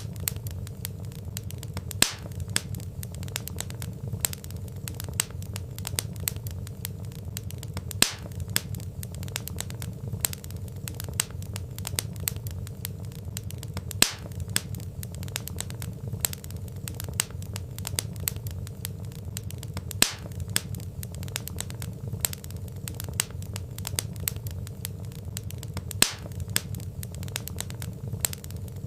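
Wood fire crackling: a dense run of small sharp pops from burning logs over a low steady rumble, with a louder pop about every six seconds.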